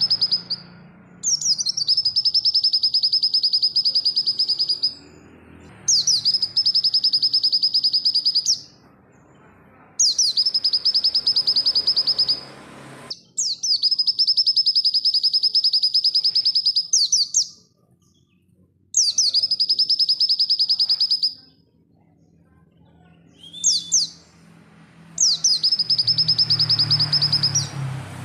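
White-eye (pleci dakun) singing in long, fast, high trills. Phrases of two to four seconds follow one another with short pauses between.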